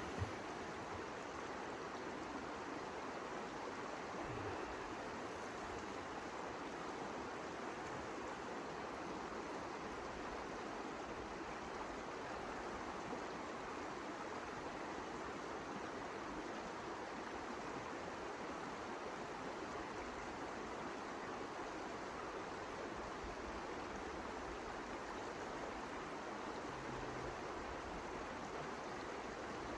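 A steady, even rushing noise, unbroken and without distinct events.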